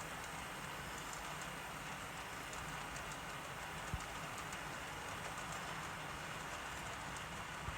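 Model train running on the layout track: a steady rushing, rolling noise, with one short knock about four seconds in.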